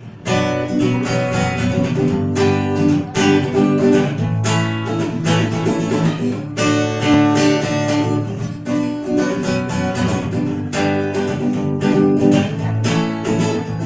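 Acoustic guitar playing an instrumental introduction: chords strummed in a steady rhythm, the chord changing every couple of seconds.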